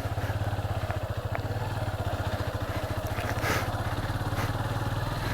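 Motorcycle engine running steadily, its firing pulses coming as a fast, even low throb, with a few light clicks and rattles over it.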